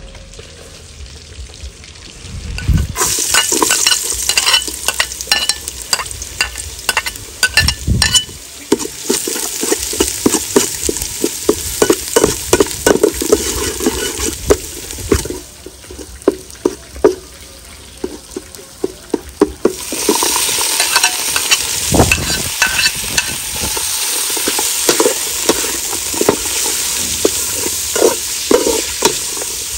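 Chopped shallots and garlic sizzling in hot oil in a metal pot, with a metal spatula scraping and tapping against the pot as it stirs. The sizzle starts about three seconds in, dies down for a few seconds mid-way, and comes back louder about twenty seconds in, with pieces of eel and dried shrimp frying in the pot by the end.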